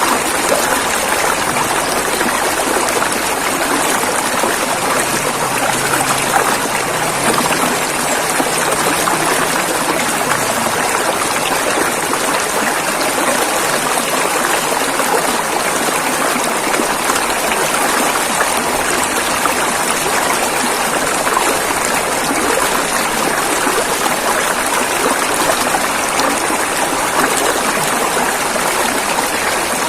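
River water rushing over rapids, a steady, loud, even rush with no pauses.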